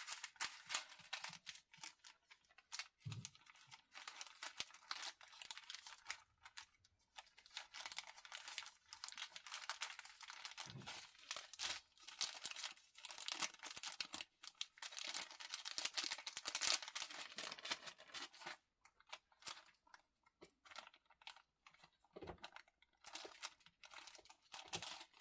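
Plastic packaging of diamond painting kits crinkling and rustling as it is handled, in quick irregular crackles that thin out for a few seconds in the latter part.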